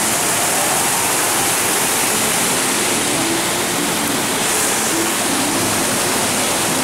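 Steady rushing water: an even, loud hiss with no breaks.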